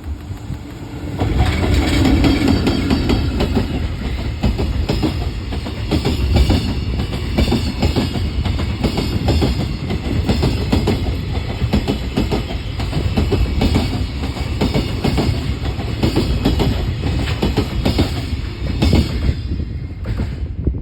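Freight train hauled by a JR EF64 electric locomotive passing close by. Its wagons' wheels clatter rapidly over the rail joints over a steady rumble. The sound rises sharply about a second in and falls away suddenly near the end as the last wagon passes.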